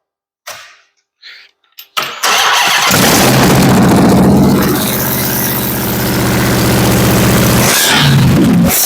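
Dodge Hellcat supercharged 6.2-litre HEMI V8 crate engine cranking about two seconds in, catching and settling into a loud, steady idle. Near the end it dips briefly, with a short sharp burst.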